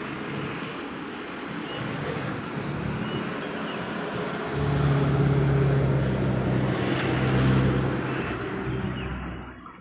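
Road traffic passing close by: a steady rush of tyres and engines, with one vehicle's low engine hum growing loud about halfway through, then fading away near the end.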